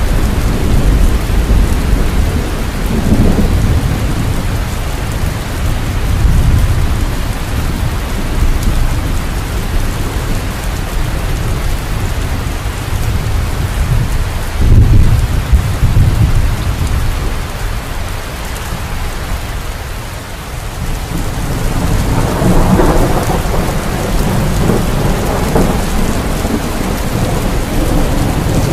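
Steady heavy rain with rolling thunder rumbling in swells, the loudest crack of thunder about fifteen seconds in.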